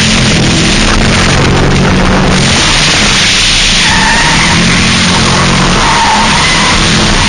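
2000 Ford Mustang drift car sliding, its engine held at high revs while the rear tyres skid. A high tyre squeal comes in about four seconds in.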